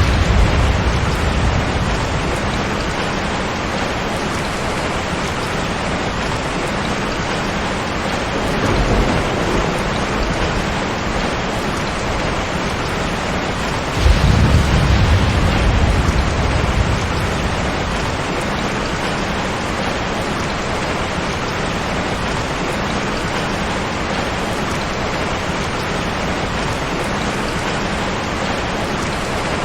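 Steady heavy rain with thunder. A rumble fades over the first couple of seconds, a softer one comes about nine seconds in, and a sudden, louder thunderclap about fourteen seconds in rumbles on for around three seconds.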